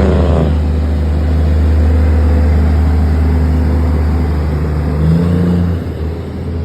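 A big diesel semi truck engine running loudly and steadily, with a brief sharp noise right at the start and a change in engine pitch about five seconds in.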